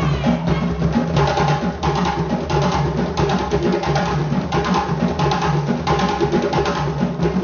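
Drum-led African dance music: drums and a wooden-sounding percussion part playing a dense, steady rhythm.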